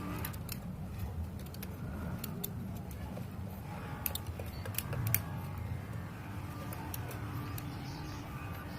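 Scattered sharp metallic clicks and knocks as a dB killer baffle is handled and fitted into a motorcycle's aftermarket exhaust muffler, over a low steady rumble.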